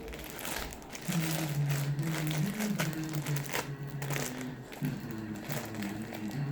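Plastic zip-lock bag crinkling and rustling in irregular bursts as it is handled.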